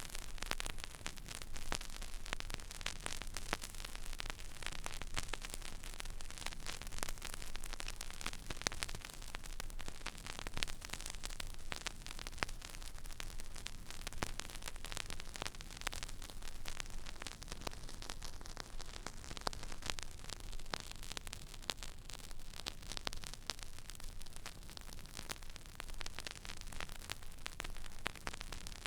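Stylus tracking an empty vinyl record groove: steady surface hiss with a dense scatter of small crackles and clicks over a low rumble.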